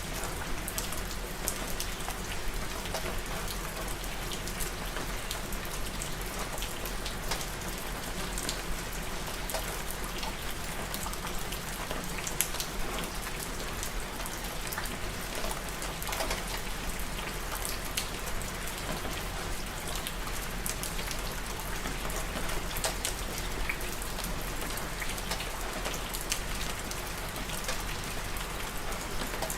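Steady rain falling on a surface, with many separate drops ticking and pattering over the constant hiss.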